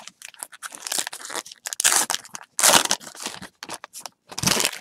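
Baseball card packs and cards being handled: the crinkle and tear of pack wrappers and cards rustling, in a run of short noisy bursts, loudest about two seconds in and again near the end.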